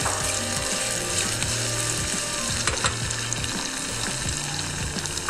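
Sliced zucchini, garlic and chili sizzling in hot olive oil in a steel pot, a steady dense crackle with a few sharper pops.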